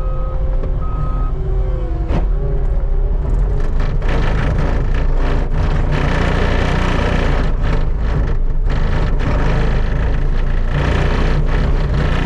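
Skid steer's engine running steadily under load, its backup alarm beeping twice before stopping about a second in. From about four seconds in, a louder rough scraping and clattering takes over as the bucket scrapes snow down to the pavement.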